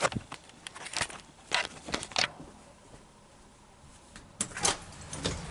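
A series of sharp clicks and knocks as a door is handled and opened, then near the end the steady hiss of falling rain comes in.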